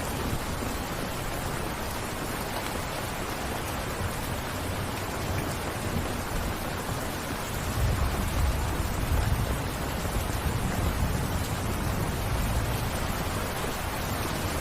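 Steady rainfall, an even hiss of many drops falling. A low rumble swells in about halfway through and fades a few seconds later.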